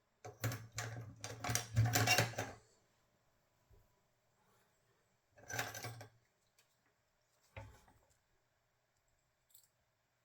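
Small tools and wires being handled while soldering a battery charging connector: a cluster of clicks and rustles for about two seconds, another short burst a few seconds later, and a single knock near the end.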